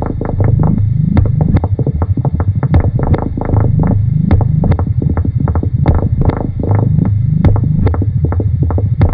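Experimental electronic tape-music noise: a loud low throbbing drone with short low sweeps rising over and over, peppered with rapid sharp clicks.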